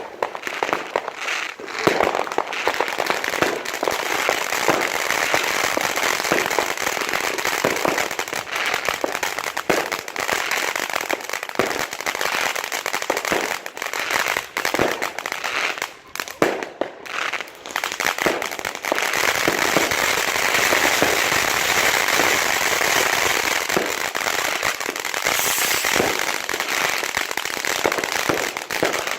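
Fireworks and firecrackers going off in a continuous barrage: many sharp bangs with crackling between them. About two-thirds of the way through it turns into dense, unbroken crackling.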